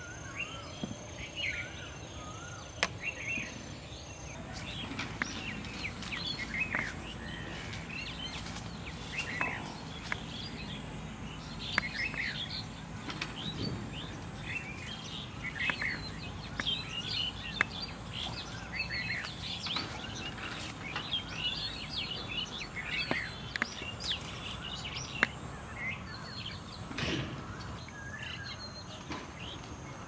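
Wild birds chirping and calling again and again in short, quick notes, with a few sharp clicks. A faint, steady high insect trill stops about four seconds in.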